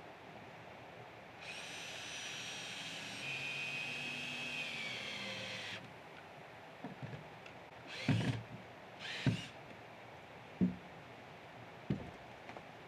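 A small power tool runs with a whine for about four seconds, then gives two short bursts, with a few knocks in between.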